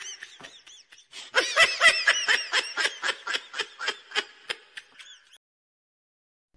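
Laughter sound effect: a fast run of ha-ha laughs, about four a second, that fades, picks up again about a second in, and cuts off suddenly a little after five seconds in, with dead silence around it.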